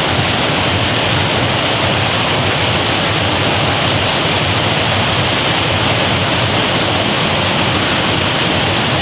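Loud, steady rush of falling and splashing water in an indoor water park, with no single event standing out.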